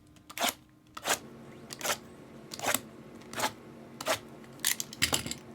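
Plastic and foil wrapping on Bowman Chrome hobby boxes and card packs crackling and tearing as they are opened. There are about eight sharp crackles, one every half second to a second, over a faint steady hum.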